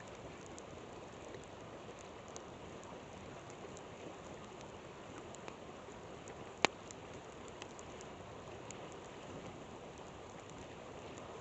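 Campfire crackling with scattered small pops and one loud, sharp pop about two-thirds of the way through, over the steady rush of a flowing river.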